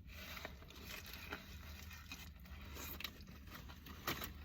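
Faint eating sounds: chewing, with a few soft mouth clicks spaced about a second apart.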